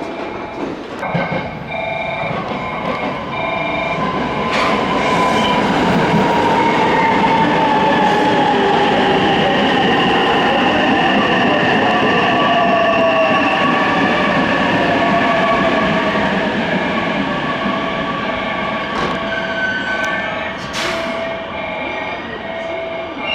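Electric train moving along the platform, its motor whine falling steadily in pitch as it slows, loudest in the middle. A repeating electronic beep sounds at the start and again near the end.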